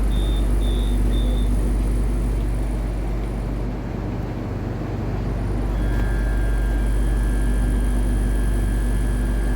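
KTM electric commuter train: a quick series of high door-warning beeps, about two and a half a second, stops about a second and a half in, over the steady low rumble of the carriage. About six seconds in, a steady high whine starts up.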